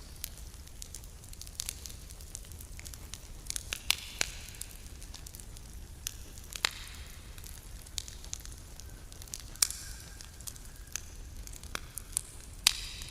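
Wood campfire crackling, with irregular sharp pops and a few louder snaps over a low steady rumble.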